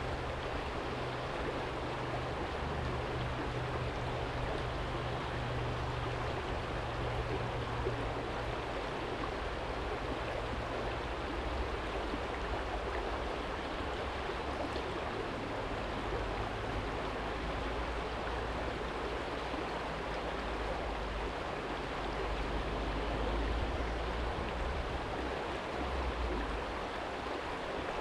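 Small stream flowing and babbling over stones, a steady rushing wash. Underneath, a low rumble of distant city traffic comes and goes, swelling a little about two thirds of the way through.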